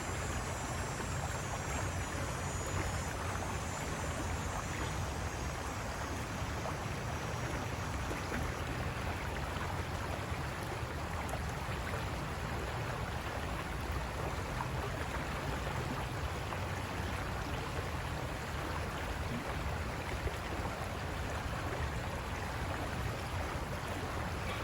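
River water rushing and breaking over rocks: a steady, unbroken rushing with a deep low rumble. A faint high-pitched sound sits over it for the first eight seconds or so.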